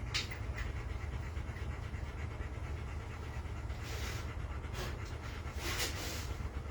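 A dog panting, in short noisy breaths, over a steady low hum.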